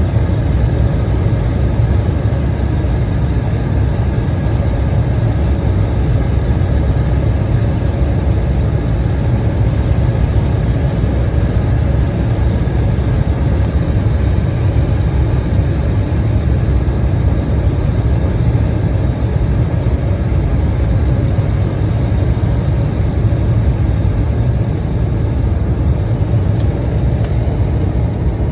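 Steady cabin noise inside an Embraer 175 airliner on its landing approach: a deep rush of airflow and the hum of its GE CF34 turbofan engines, with faint steady whining tones above.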